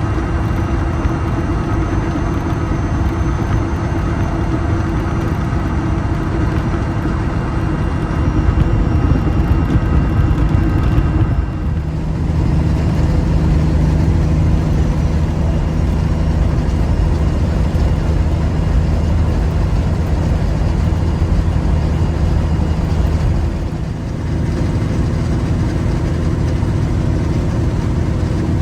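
Peterbilt 359 truck's diesel engine running under way with a steady drone. Twice, about 12 seconds and 24 seconds in, the sound briefly dips and the engine settles on a new pitch.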